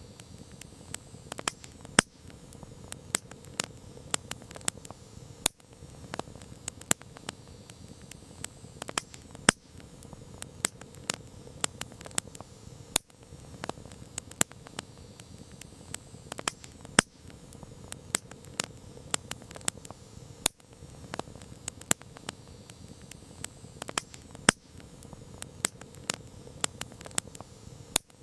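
Wood campfire crackling: irregular sharp pops and snaps, several a second and of varying strength, over a steady low rush of the flames.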